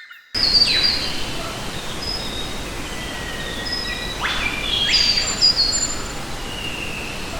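Forest ambience with a steady hiss, cutting in abruptly just after the start, and several birds calling over it: short whistled notes and quick downward-sweeping calls, the strongest a few seconds in.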